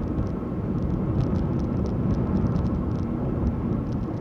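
Steady road and engine rumble heard from inside a moving car's cabin, with faint light rattles and ticks over it.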